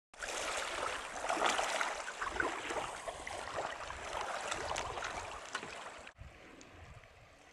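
Water splashing and gurgling, full of small sharp splashes. About six seconds in it cuts off abruptly to a much quieter low rumble.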